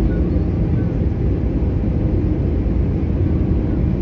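Airbus A320 engine and airflow noise: a steady, loud low rumble with no change in level.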